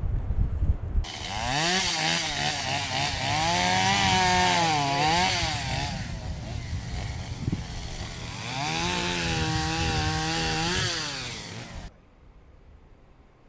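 Chainsaw running, its engine pitch rising and dipping as it is revved while cutting. It starts about a second in and cuts off abruptly near the end.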